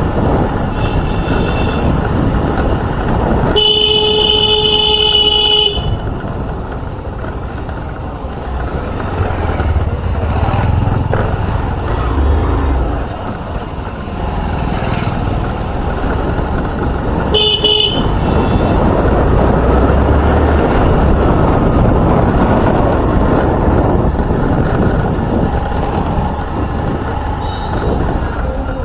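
Motor-vehicle horn honking for about two seconds a few seconds in, with a second short honk about halfway through. Under the horns runs the steady noise of riding through traffic: wind, engine and road noise.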